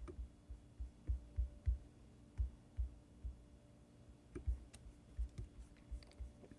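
Soft, irregular clicks and low thuds of a computer mouse and keyboard being worked, about two a second, over a faint steady hum.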